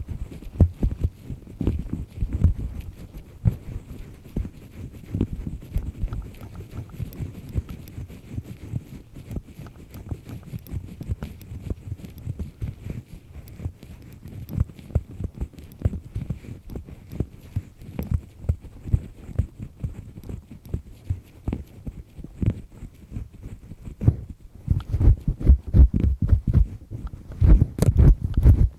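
Double-disc ear pick working firmly inside an ear canal, right at the microphone: quick, irregular scraping and rubbing strokes with dull low thuds, growing denser and louder in the last few seconds.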